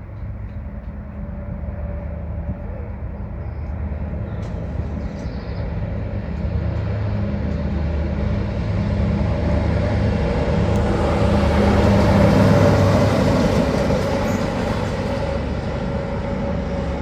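A train approaching and passing close by. Its engine hum and the rumble of the wheels on the rails build up steadily, are loudest about twelve seconds in, then begin to fade.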